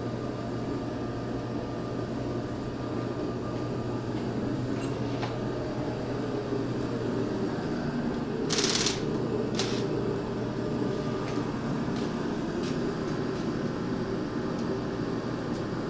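Steady low machine hum with a few faint clinks and two short hisses about nine and ten seconds in.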